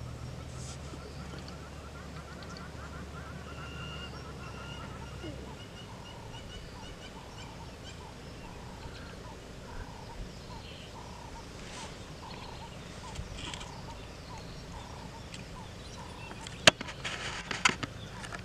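Birds calling: a short trill, then one call repeated about every 0.7 s for around ten seconds. A low engine idle stops about five seconds in, and a sharp click with a few knocks comes near the end.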